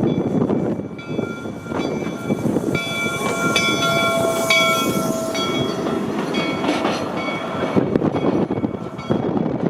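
Steam locomotive's bell ringing, struck again and again about once a second, each stroke ringing on briefly, over the steady noise of the locomotive.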